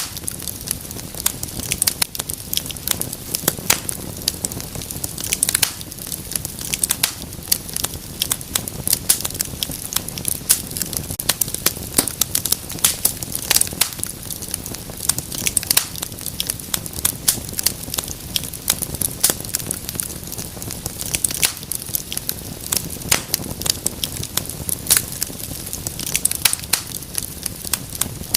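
Wood fire crackling in a fireplace: a steady low rumble of flame with dense, irregular pops and snaps.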